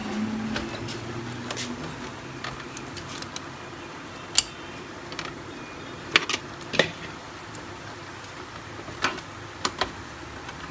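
Plastic clicks and snaps of the cover locks on a Canon LBP 6030 laser printer being bent and worked free by hand. There are a handful of sharp clicks: one about four seconds in, a few together around six to seven seconds, and more around nine to ten seconds.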